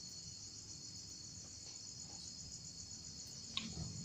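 Crickets chirping steadily in a continuous high-pitched trill, with one faint click near the end.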